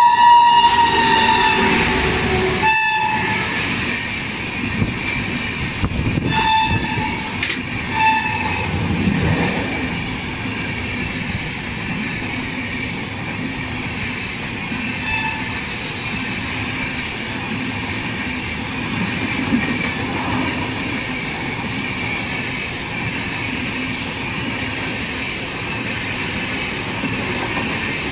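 Indian Railways electric locomotive sounding its horn as it runs through: one long blast that ends about three seconds in, then two short toots, followed by the steady rumble and wheel clatter of its passenger coaches passing.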